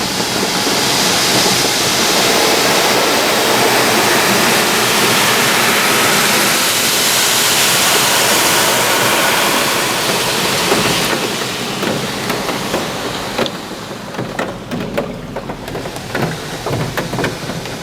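Spot-free rinse water from an Oasis Typhoon in-bay automatic car wash spraying over the car, heard from inside the cabin as a loud, even hiss. It fades about two-thirds of the way through into uneven spattering as the rinse winds down.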